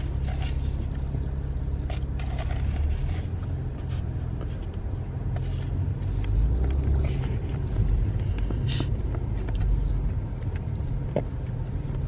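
A car driving, heard from inside the cabin: a steady low rumble of engine and road, with a few faint clicks.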